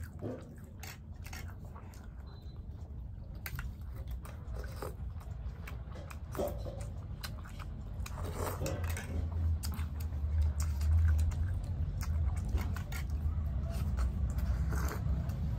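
People chewing and eating momo dumplings, with many small scattered mouth clicks and smacks, over a steady low rumble that gets louder in the second half.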